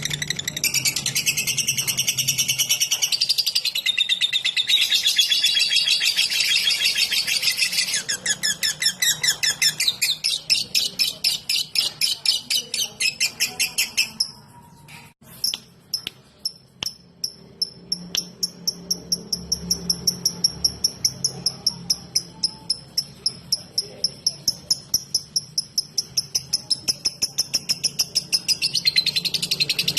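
Lovebird singing: a dense, fast, high chatter for the first half, a brief break just after the middle, then a long run of quick, evenly spaced ticks, about four a second. This is the 'ngetik' (typing) song, with the chatter coming back near the end.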